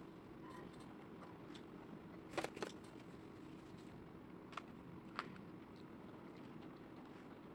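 A metal fork clicking against a food container while eating: a quick pair of light clicks about two seconds in, then two single clicks a few seconds later, over a low steady room noise.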